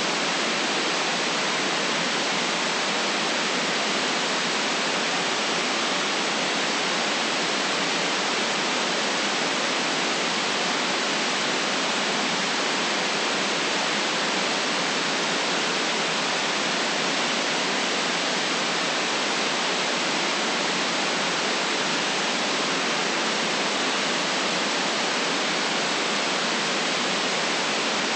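Steady electronic white noise: an even hiss that never changes, cut off sharply below about 150 Hz and above about 8 kHz.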